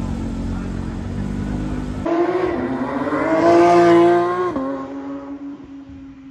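Porsche engine under throttle. The first two seconds hold a dense, steady engine sound. Then a clear engine note climbs in pitch and gets louder, drops abruptly to a lower pitch a little past halfway, and holds steady while fading.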